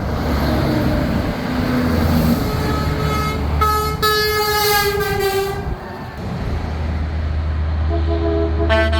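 Semi trucks driving past with engines running, and air horns blowing. One horn sounds for about two seconds a few seconds in, its pitch falling slightly as it passes. Near the end a deeper chord-like horn starts in short blasts.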